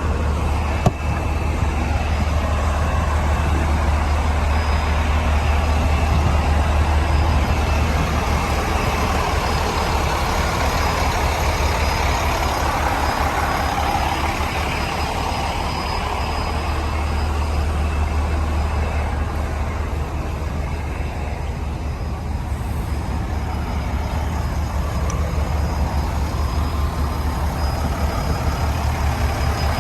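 Heavy diesel engine of an International 7600 volumetric mixer truck running steadily with a deep low hum, with one brief click about a second in.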